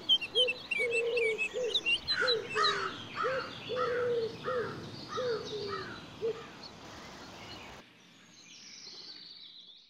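Birds chirping and calling: a run of short repeated notes with high chirps and falling whistles over them. The birdsong cuts off abruptly about eight seconds in, leaving a fainter sound.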